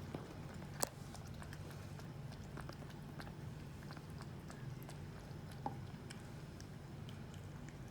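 A cat lapping milk, a steady run of small wet ticks, with a sharper click about a second in and another later, over a steady low hum.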